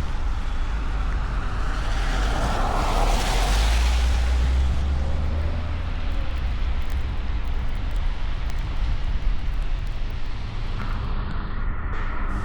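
Car driving on a snowy road: steady low rumble of engine and tyre noise, swelling for a couple of seconds about three seconds in.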